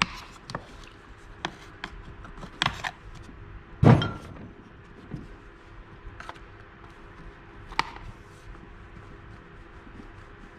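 Scattered clicks and knocks of a screwdriver against a Stihl MS 250 chainsaw's housing as a hard rubber anti-vibration mount is pried and pushed through, the loudest knock about four seconds in. A faint steady hum lies underneath.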